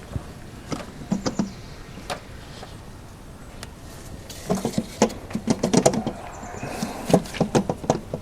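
Light clicks, taps and clinks of small metal parts and tools being handled while refitting parts on an aluminum engine valve cover. A few scattered taps at first, then a quick irregular run of clicks in the second half.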